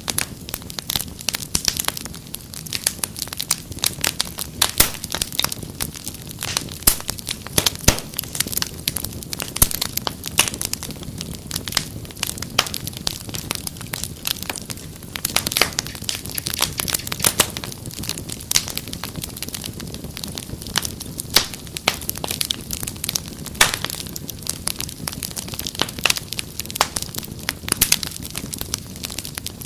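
Wood fire crackling steadily, with frequent irregular sharp pops and snaps over a low, even rumble of the flames.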